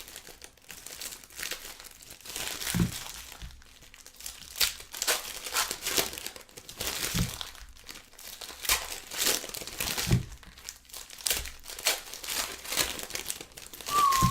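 Trading card pack wrappers crinkling and tearing as packs of basketball cards are opened and the cards handled: irregular crackles throughout.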